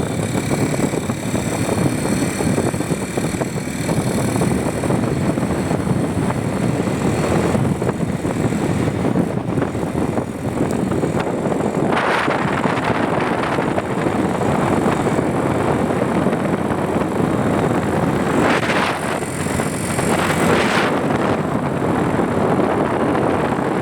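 Wind rushing over the microphone and road noise from a moving bike, steady throughout, with brief louder surges about halfway through and twice more later on.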